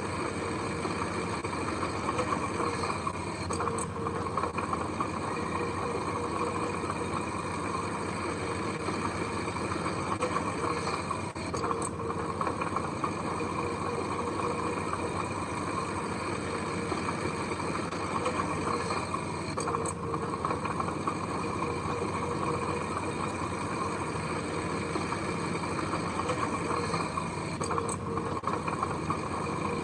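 Diesel engine of heavy earthmoving machinery running steadily, with faint short ticks about every eight seconds.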